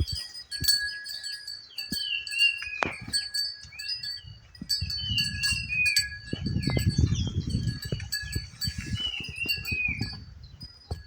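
Wild birds calling: many short, clear whistled notes that curve down in pitch, repeated over and over, with steady high tones behind them. A low rumble rises in the middle and fades again.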